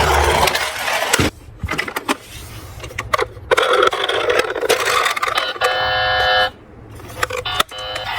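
Toy cars rolling and clattering down a small slope, wheels rattling with many sharp clicks and knocks. About six seconds in, a short electronic tone sounds for under a second, and a shorter one near the end.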